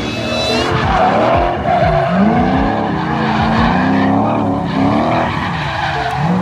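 Car engine revving hard, its pitch swinging up and down again and again, with tyres squealing.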